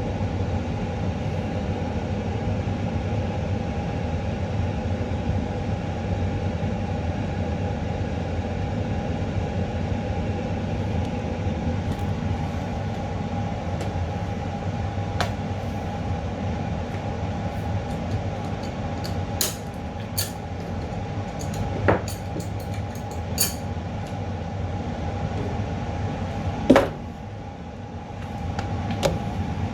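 Steady machine hum with a low drone and two steady tones, with scattered light clicks and taps from about halfway in, and one louder click near the end.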